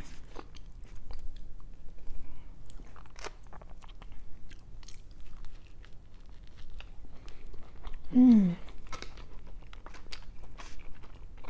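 A person biting and chewing crispy hash browns close to the microphone, with many small crunches and crackles. There is a short hum of the voice about eight seconds in.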